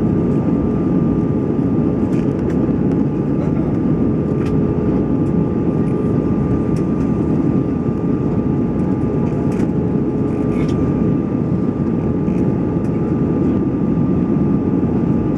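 Steady drone inside the cabin of an Airbus A320-214: its CFM56 jet engines and the rushing airflow, a dense low rumble with a couple of steady whining tones held throughout.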